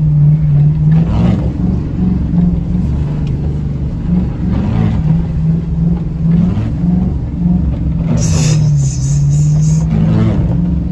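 Vehicle engine running with its pitch stepping up and down, heard from inside a following vehicle's cabin, with a short burst of hiss about eight seconds in.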